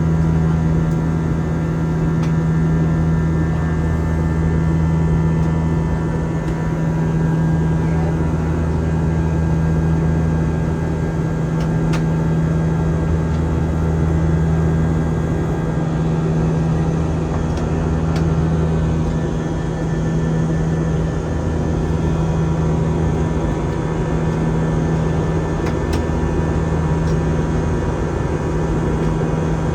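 Airbus A320 in flight, heard from inside the cabin: a steady drone of jet engines and rushing air with a constant low hum.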